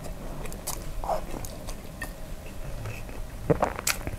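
Close-miked chewing of a mouthful of kimchi fried rice, with small wet mouth clicks and smacks. A few sharper, louder clicks come near the end.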